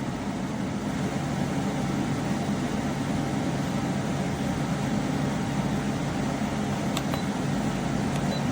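KGOGO portable air conditioner running steadily on low fan speed, a constant hum of its fan and motor. About seven seconds in, a click and a short faint beep from its control panel.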